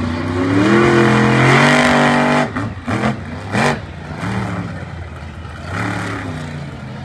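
Monster truck engine revving hard, its pitch climbing for about two seconds before it cuts off sharply, then a couple of quick throttle blips and two shorter, lower rev-ups.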